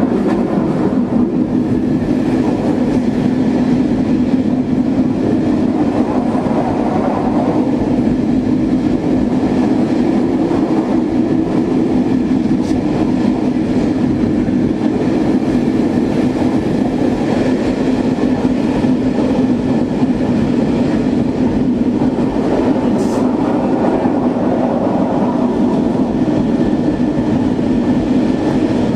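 A train on a Swiss mountain railway running at steady speed: a continuous, even rumble with a steady low drone.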